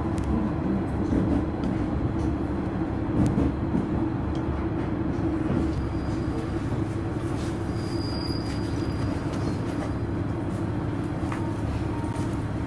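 Train running on its rails, heard from inside the carriage as it pulls alongside a station platform: a steady low rumble, with a faint high squeal about six to eight seconds in.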